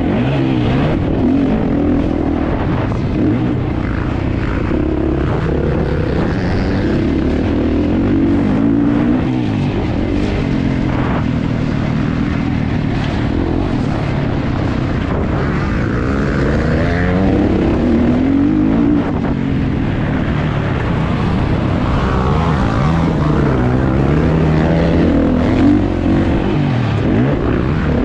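Kawasaki KX450's four-stroke single-cylinder engine racing, its pitch rising and falling over and over as the throttle is opened and shut and the gears change.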